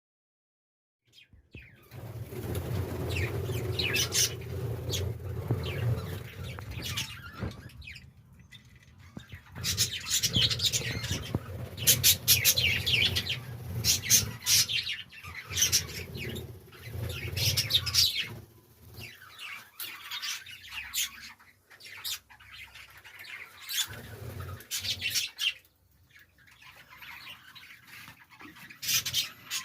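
Budgerigars chirping in repeated short bursts of high chatter, starting about a second in over a low steady rumble.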